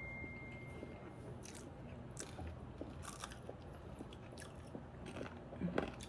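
Close-up chewing and crunching of crisp fried tostones (twice-fried green plantain slices): a string of irregular crisp crunches, the loudest near the end. A faint thin ringing tone dies away in the first second.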